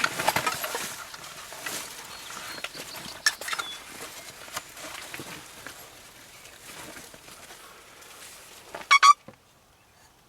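Light rustling and small clicks, then near the end one short, loud, rapidly warbling turkey gobble or yelp. The sound then cuts off to near silence.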